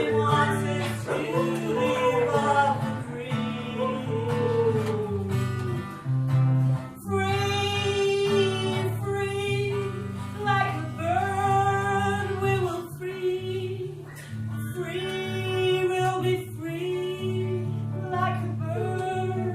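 Live band music: a woman singing long held notes over guitar accompaniment.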